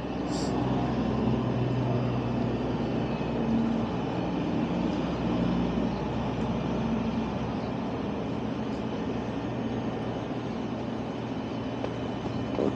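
A large engine running steadily with a low drone whose pitch shifts slightly over the seconds, like heavy machinery working.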